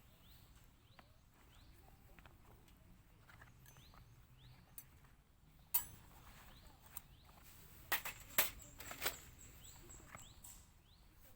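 Quiet outdoor ambience with a bird's faint short rising chirps repeating every second or so. Several sharp clicks or knocks break in, a cluster of them in the second half.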